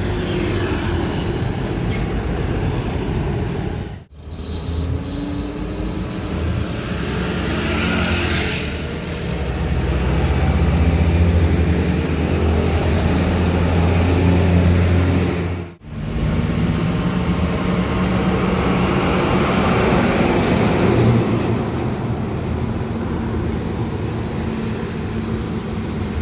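Diesel trucks passing on a road in traffic, their engines running under load, with the loudest, deepest engine note in the middle as one passes close. The sound drops out abruptly twice, about four seconds in and again past the middle.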